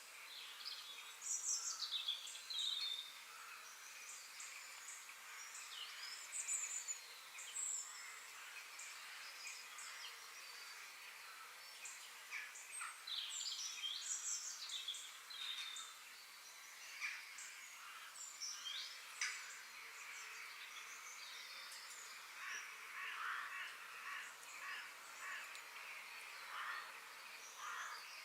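Several birds singing and calling, short chirps and whistled phrases overlapping one another, over a faint steady background hiss.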